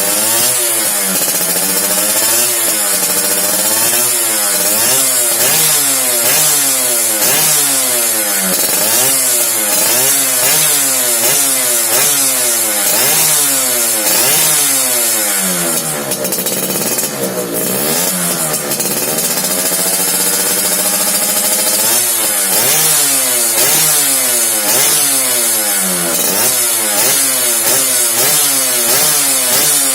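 Yamaha F1ZR two-stroke motorcycle engine through a BM Power aftermarket racing exhaust, revved up and down over and over in quick throttle blips, about one a second, with a slower rise and fall about halfway through.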